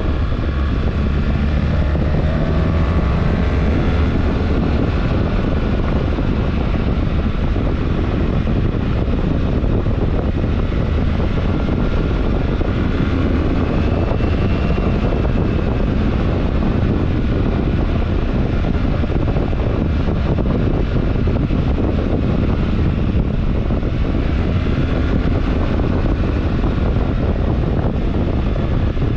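BMW R1300GS motorcycle's boxer twin engine running steadily under way, with wind noise on the microphone over it. The engine pitch wanders gently, rising briefly a couple of times.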